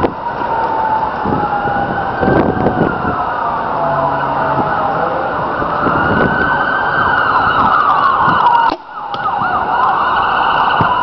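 An emergency siren wailing, its pitch slowly rising and falling, over strong wind buffeting the microphone. The gusts let up briefly near the end.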